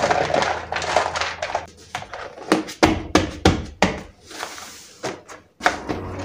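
Storage containers handled on a counter: a run of sharp knocks and thunks, clustered between about two and a half and four seconds in.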